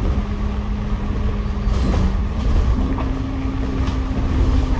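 Double-decker bus running, heard from the upper deck: a steady low rumble with a drivetrain whine that steps up in pitch a little under three seconds in.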